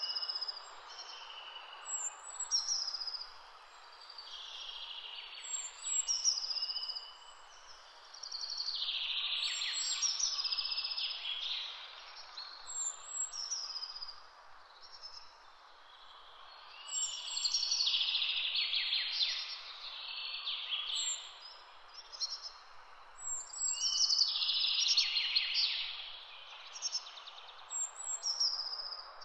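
Wild songbirds singing: a longer, louder song phrase comes about every seven seconds, over short high chirps from another bird repeating about every two seconds. A steady outdoor background noise runs underneath.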